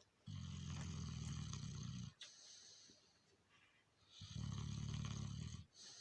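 An Alabai (Central Asian Shepherd dog) snoring in its sleep: two long snores, each about a second and a half to two seconds, about four seconds apart.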